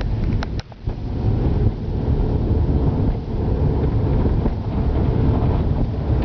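Steady low rumble of a car driving, road and engine noise with wind buffeting the microphone. A few sharp clicks and a brief dip in level come just under a second in.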